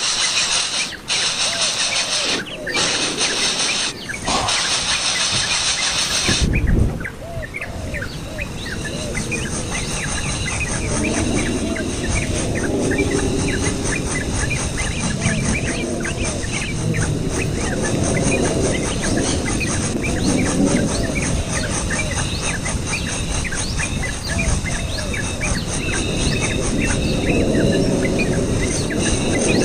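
Loud hissing rustle that cuts off suddenly about six seconds in. Then come many small birds chirping in rapid, overlapping short calls, with a faint steady high insect trill underneath.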